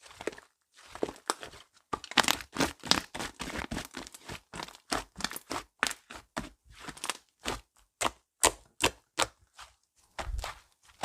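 Slime being squished, folded and stretched by hand, giving a fast run of small clicks and crackles from popping air pockets. The clicks are sparse at first and come thick and fast from about two seconds in.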